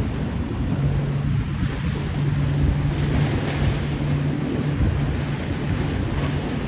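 Motorboat engine running with a steady low drone, mixed with rushing water and wind buffeting the microphone.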